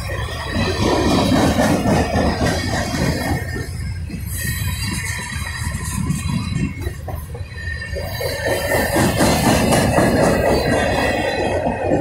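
Norfolk Southern freight cars (tank cars, a boxcar and covered hoppers) rolling past close by, a continuous loud rumble and clatter of steel wheels on rail with a thin high wheel squeal over it. It swells twice, about a second in and again near the end.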